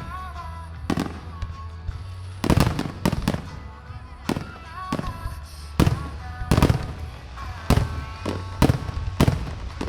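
Aerial fireworks shells bursting one after another, a dozen or more sharp booms, several in quick succession.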